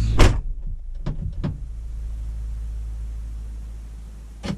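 2008 Chevy Impala car door being tested after a latch cable replacement. It shuts with a loud thud right at the start, a few latch clicks follow about a second later, and another thud comes near the end. A low hum under it fades away.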